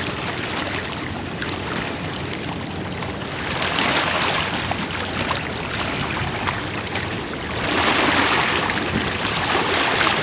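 Small waves washing against the shore of the bay, with a steady rushing noise that swells twice, about a third and again about three quarters of the way through.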